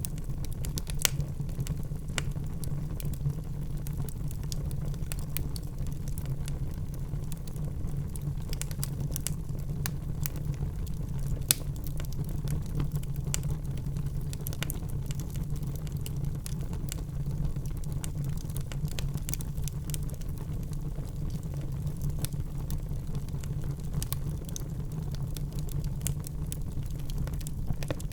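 Log fire crackling in a fireplace: a steady low rumble of burning with irregular sharp pops and snaps throughout, one louder pop about a third of the way in.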